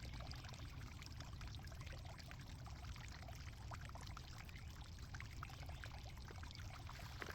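Loose garden soil trickling and crackling as it is dug through and sifted by hand: many small gritty clicks over a low steady rumble.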